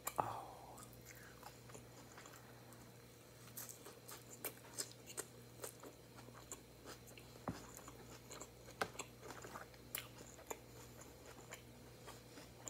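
Faint close-up chewing of a mouthful of grilled chicken salad, heard as scattered single soft crunches and clicks.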